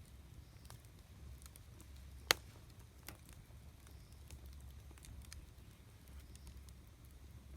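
Wood campfire crackling, with scattered small pops and one sharp, loud pop a little over two seconds in, over a low steady rumble.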